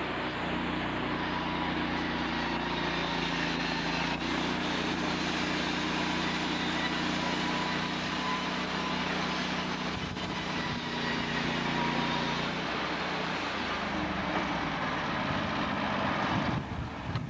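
An engine running steadily under heavy mechanical noise, its pitch settling lower about thirteen seconds in, with a brief drop in level near the end.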